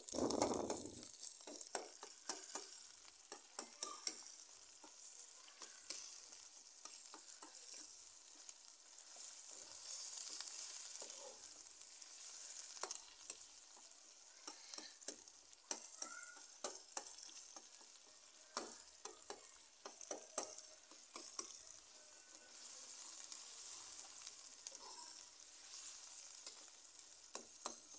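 Onion, tomato and green-chilli masala sizzling in oil in a metal wok, with a steady high hiss and frequent sharp clicks of a metal ladle scraping and knocking against the pan as it is stirred. The masala is being fried down, the bhuna stage before the potatoes go in.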